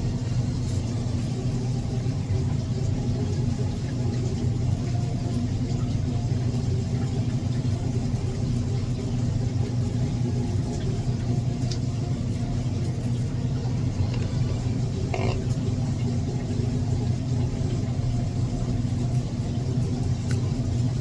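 A steady low mechanical hum and rumble that does not change, with one brief higher sound about fifteen seconds in.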